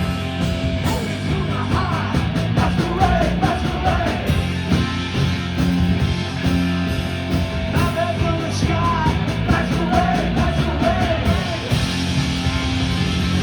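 Punk rock band playing live, loud and steady, with a wavering melodic line rising above the band twice.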